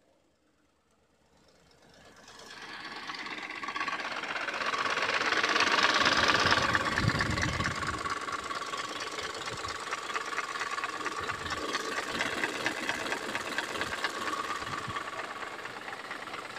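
Audi engine with the AUW engine code running, with a knocking noise. The sound swells in from near silence about two seconds in, is loudest around six seconds, then holds steady with a fine, rapid ticking.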